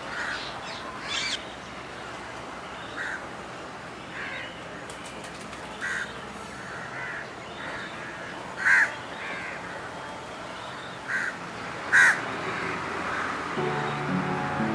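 Wild birds calling in a wetland: a dozen or so short calls a second or two apart over a steady outdoor background, with two louder calls past the middle. Music fades in near the end.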